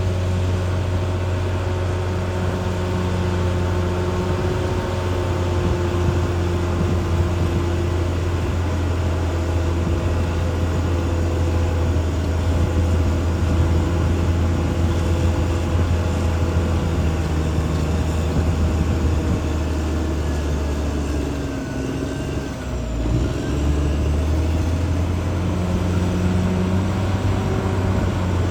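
Caterpillar D6R XL bulldozer's diesel engine running steadily at working speed. About three-quarters of the way through, the engine note briefly dips and drops in pitch, then picks back up.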